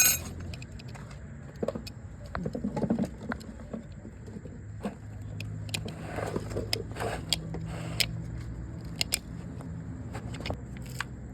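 A sharp knock, then scattered metallic clicks and clinks over a steady low hum, typical of tools and metal parts being handled.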